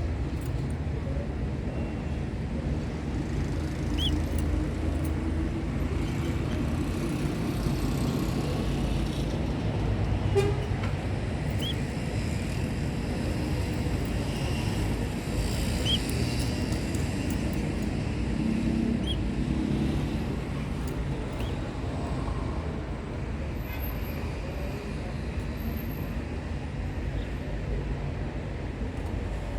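Steady low rumble of background noise, with a few short, high chirps from canaries scattered through it.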